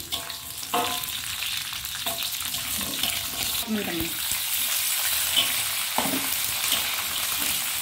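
Shallots, garlic, lemongrass and ginger sizzling in hot oil in an aluminium wok, stirred with a metal spatula that scrapes the pan. Partway through, boiled chicken gizzards are tipped in and fry on with a steady sizzle.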